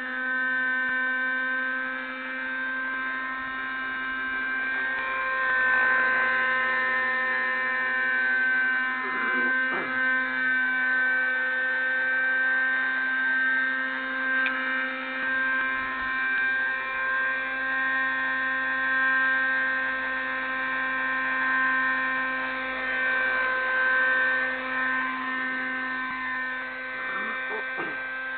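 Raptor 30 nitro radio-control helicopter's glow engine and rotors running with a steady high-pitched whine, its loudness swelling and easing every few seconds.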